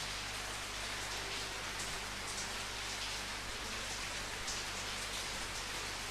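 Steady rain falling, a dense even hiss of drops with occasional louder single drops standing out, over a faint low hum.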